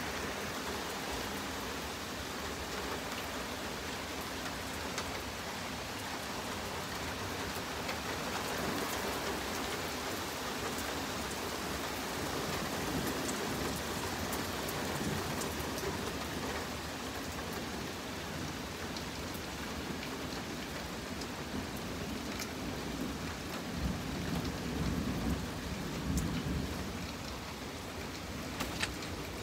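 Steady rain falling, with a low rumble of thunder swelling late on.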